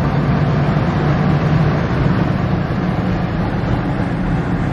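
Car engine pulling steadily in fourth gear at speed, heard from inside the cabin as a low drone over heavy road and wind noise.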